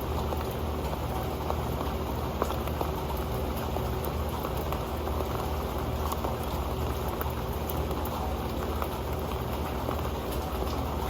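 Steady rain, with many small raindrops tapping sharply on an old pan.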